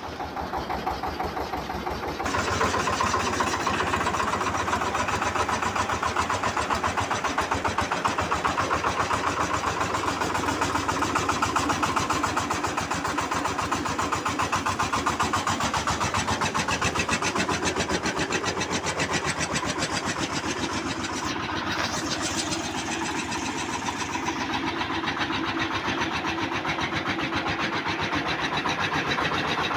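VST Shakti 130 DI power tiller's single-cylinder diesel engine running with a fast, even chugging that picks up about two seconds in.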